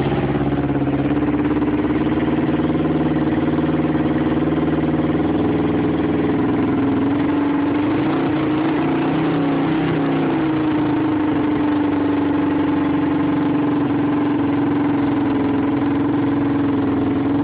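Kawasaki Ninja 500R's parallel-twin engine idling steadily with the choke on, its note wavering a little about halfway through.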